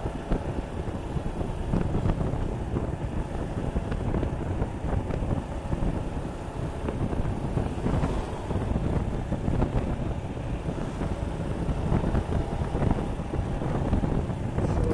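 Wind buffeting an outside-mounted microphone on a moving motorcycle, a steady low rumble with the Suzuki Gixxer 155's single-cylinder engine running underneath.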